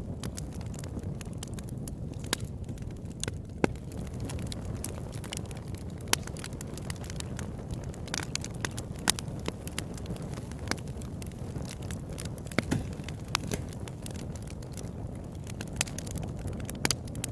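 Campfire burning: a steady low rumble with sharp crackles and pops at irregular intervals, a few of them louder snaps.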